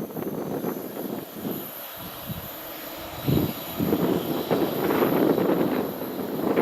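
Train passing on the line: a steady rumbling rolling noise that dips briefly and swells again after a thump about three seconds in.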